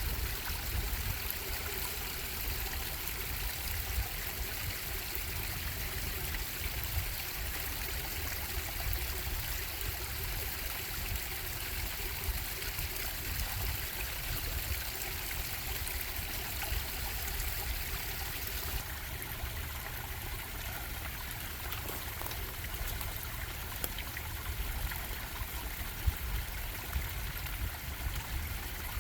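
Small stream bubbling and trickling steadily over rocks, with a deep rumble under the splashing.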